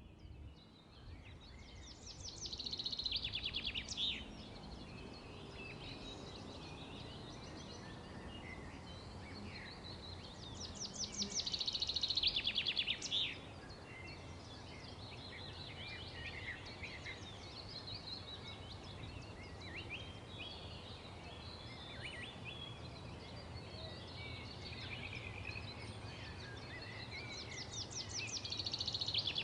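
Songbirds singing: a loud rapid trill repeats three times, about every ten to fifteen seconds, with scattered chirps between, over steady low background noise.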